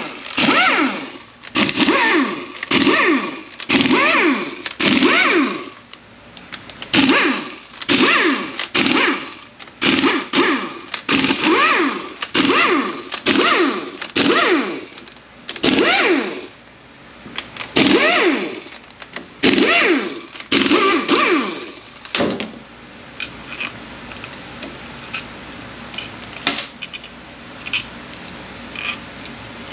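Power ratchet spinning out the 10 mm valve body bolts of an A650E automatic transmission, in about twenty short runs one after another, each whirring with a pitch that sweeps up and down. After about 22 seconds the runs stop, leaving light clicks and clinks of bolts and parts being handled.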